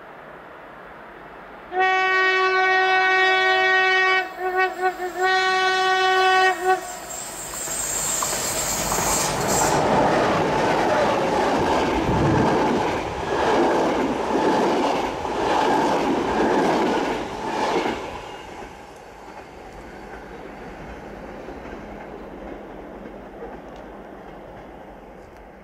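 A passenger train sounds its horn for about five seconds, a steady blast that stutters in its second half. It then passes close by with a loud rush and rhythmic wheel clatter over the rail joints, which fades to a receding rumble.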